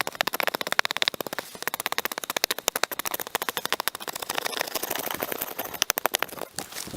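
Rapid scraping of the charred wood inside a log being burned out into a bowl, cleaning out the burnt areas. The strokes come quickly, about ten a second, with short pauses.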